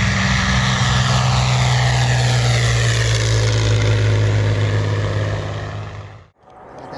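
A propeller aircraft flying low past, with a steady, loud engine and propeller drone and a sweeping shimmer in the sound as it goes by. It fades and then cuts off sharply just over six seconds in.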